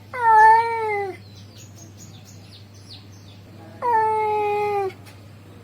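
Male cat calling to a female with two long, drawn-out meows about three seconds apart, each about a second long and falling slightly in pitch toward the end.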